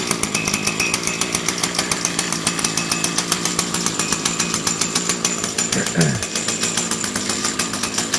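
Echo stick edger's small two-stroke engine running steadily on a cold start, with a fast, even firing rhythm. A short falling tone cuts in about six seconds in.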